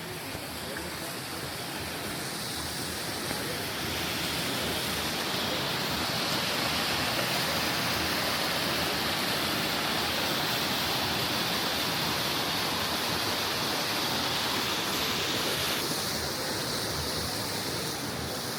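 Mountain stream rushing over rocks, a steady water noise that grows louder over the first few seconds and eases a little near the end.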